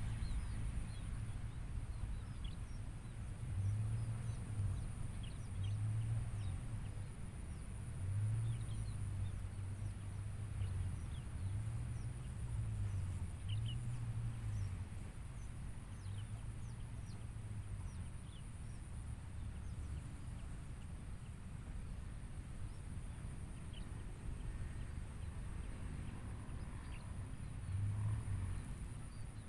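Lakeside nature ambience: a steady high-pitched buzz, scattered short chirps, and a low hum that swells for about a second at a time, several times in the first half and once near the end.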